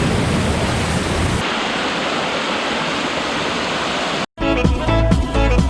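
Steady rush of a waterfall, with a heavy low rumble of wind on the microphone for the first second and a half. After about four seconds it cuts out, and electronic music with a steady beat starts.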